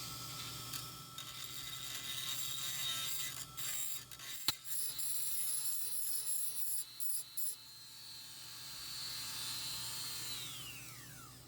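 Dremel rotary tool grinding to lengthen bolt holes in a metal bracket, a dense high-pitched grinding with a sharp click partway through. Near the end its steady motor whine falls away as the tool spins down.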